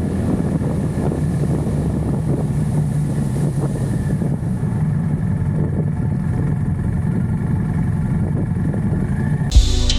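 BMW GS motorcycle engine running steadily while riding, with wind noise on the microphone. Music with drums cuts in abruptly near the end.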